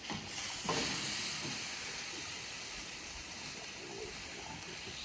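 A steady hissing rush of noise that swells about a third of a second in and then holds level.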